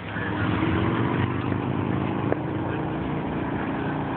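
A motor vehicle's engine running amid steady street noise, its pitch sinking slowly, with one sharp click a little past halfway.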